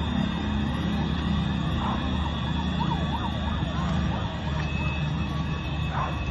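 Emergency vehicle siren sounding with a quick up-and-down warble over a steady low rumble of street noise.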